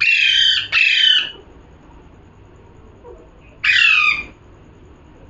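Pet parrot squawking: three harsh calls, two back to back at the start and a third about three and a half seconds in.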